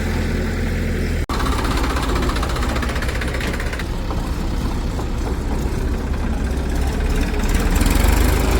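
Heavy diesel machinery engine running steadily with a low hum, cut by a very brief drop-out about a second in.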